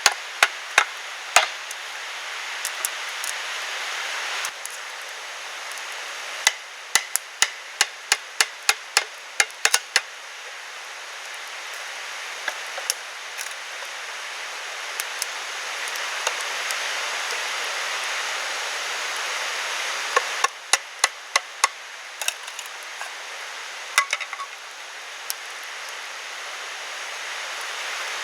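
Repeated sharp knocks of a tool chopping or hammering wood, coming in runs with pauses between them, at times about three strikes a second, over a steady background hiss.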